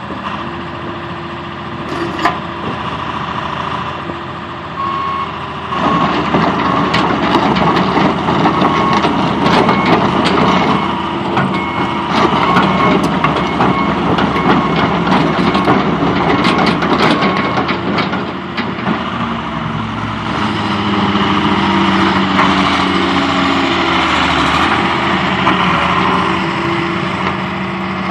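John Deere 200LC hydraulic excavator's diesel engine running, picking up sharply about six seconds in as the machine is worked, with knocks and clanks from the working machine. A steady on-off beeping alarm sounds through the middle stretch.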